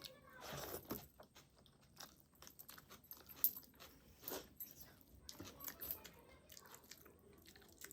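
Close-miked chewing and biting while eating a rice and spicy chicken curry meal: irregular wet mouth smacks and clicks, with one sharp crunch about three and a half seconds in.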